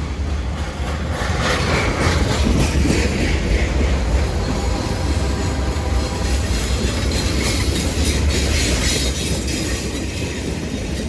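Norfolk Southern freight train rolling past close by: a heavy, steady rumble of steel wheels on rail with clattering over the track. It swells about a second and a half in and stays loud.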